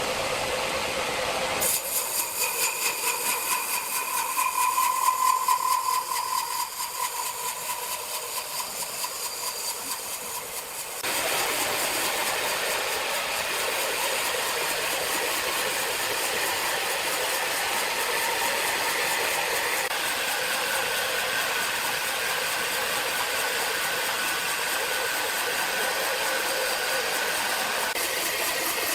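Sawmill machinery running, a mechanical din that changes abruptly several times. A tone swells and fades a few seconds in, with the loudness pulsing for the first ten seconds or so.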